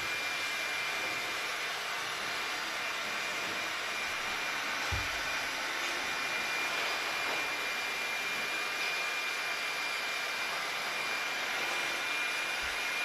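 Leister Sonara S1 hot air hand tool's blower running steadily, a rushing of air with a faint steady high whine.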